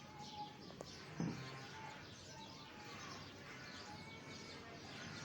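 Small birds chirping and twittering, faint, with many short repeated notes.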